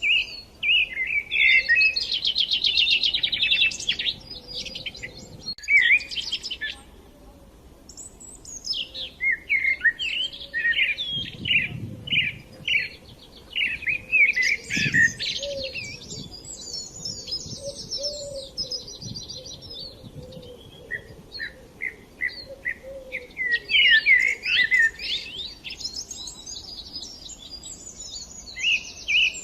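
Small songbirds chirping and trilling in quick, overlapping bursts, with a short lull about seven seconds in.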